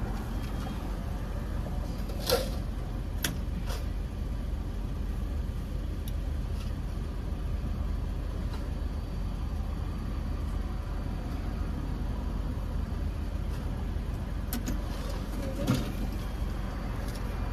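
Car engine idling, a steady low rumble heard from inside the cabin, with a few short clicks and knocks, the loudest about two seconds in.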